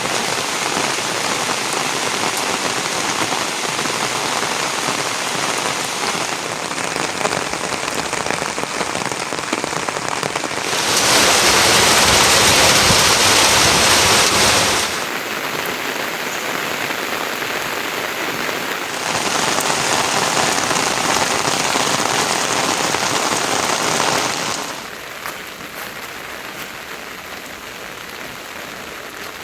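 Rain falling steadily, with no other sound standing out. It gets abruptly louder twice for a few seconds each, in the middle and again in the second half, and is quieter near the end.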